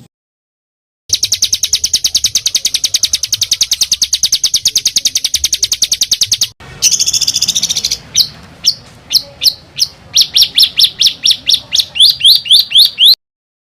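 Songbird calls spliced into a masteran training track: a fast, tight trill of about ten notes a second, then a brief harsh rasp, then a run of sharp falling 'shot' notes that come faster and louder toward the end.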